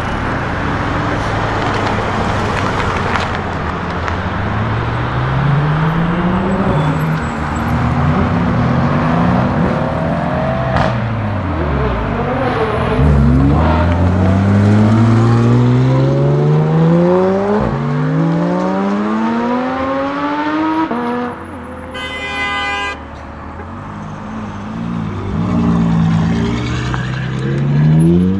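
Track cars at full throttle, led by the Lamborghini Huracan STO's naturally aspirated V10: engines climbing in pitch through the gears and dropping away as cars pass, several overlapping. About three quarters of the way through, a short high horn-like toot lasts about a second.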